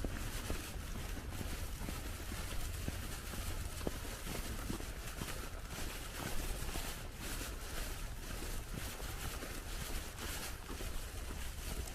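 Footsteps crunching through snow at a walking pace, over a steady low rumble.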